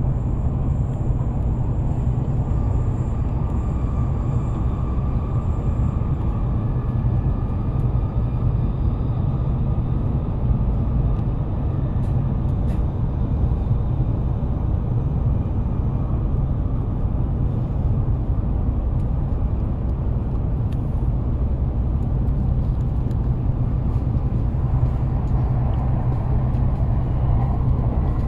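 Steady low rumble of an E7-series Shinkansen train running along the line, heard from inside the passenger cabin.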